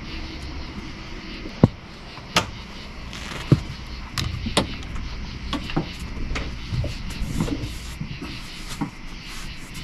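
Camping gear being handled aboard a small boat: a run of sharp knocks and clatters, the loudest three in the first few seconds, over a low steady background.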